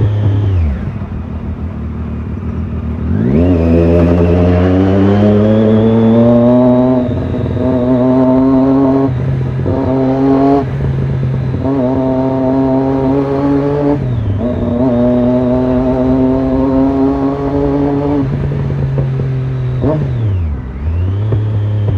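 Triumph Daytona 675R's three-cylinder engine breathing through a Torque aftermarket exhaust, idling and then revved hard several times, each rev held for a few seconds before dropping away. It settles back to idle near the end.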